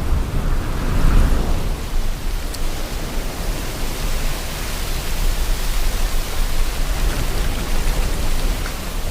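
Sea waves washing with wind, a steady rushing hiss over a deep rumble, with one wave surging about a second in.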